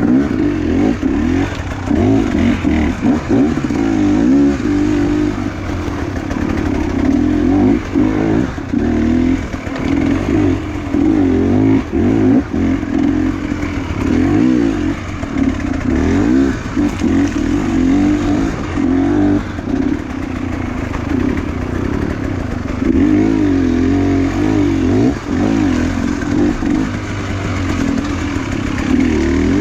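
Enduro motorcycle engine revving up and down repeatedly as it is ridden, its pitch rising and falling every second or two.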